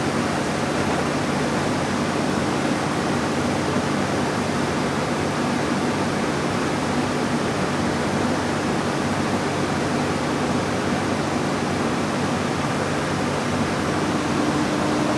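Floodwater rushing in a flash flood: a loud, steady roar of water with a low steady hum underneath that grows a little stronger near the end.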